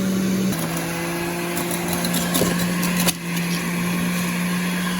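Electric juicer motor running with a steady hum that drops slightly in pitch about half a second in. A run of clicks and rattles follows, ending in a sharp knock about three seconds in, while the motor keeps running.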